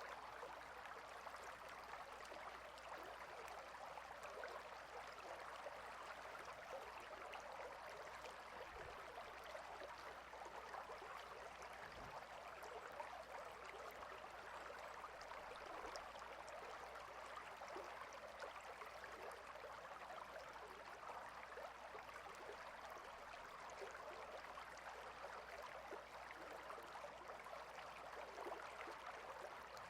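Small stream flowing steadily over stones, an even rush of running water.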